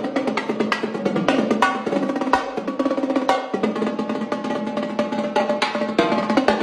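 Drum kit played freestyle: fast, dense runs of stick strokes across the drums, with ringing drum tones.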